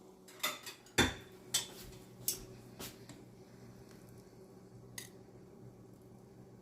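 Kitchenware clinking and knocking as cooking gets under way: a quick run of sharp clinks in the first three seconds and one more about five seconds in, over a faint steady hum.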